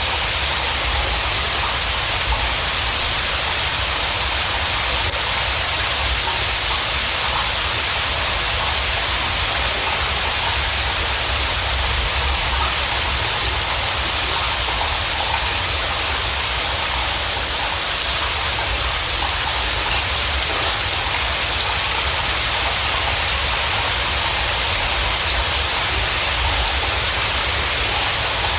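Steady rain: an even hiss of falling drops with a low rumble underneath, unchanging throughout.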